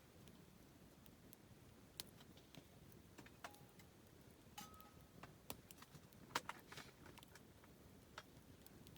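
Campfire of burning wood crackling: scattered sharp pops and snaps at irregular intervals, the loudest a little past the middle, with two brief faint whistling tones in the middle.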